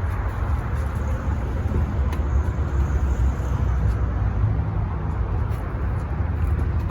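Steady low rumble of vehicle and road noise, with a few faint clicks.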